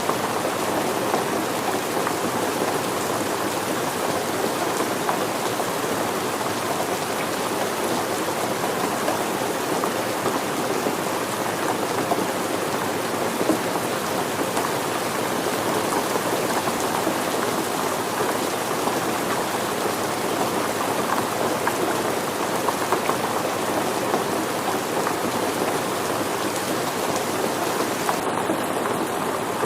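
Steady rain falling, a dense, even patter of drops on surfaces with no pauses.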